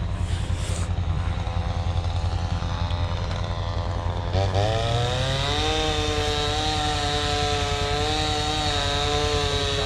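Chainsaw running at low speed, then revved up about four seconds in and held at full throttle, as when sawing a fallen tree trunk. A steady low engine rumble runs underneath.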